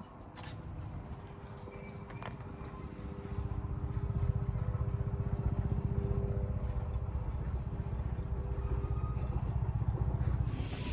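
Andrew Barclay narrow-gauge steam locomotive approaching, its low, rapid rhythmic running growing louder from about three seconds in. A loud hiss of steam starts suddenly near the end.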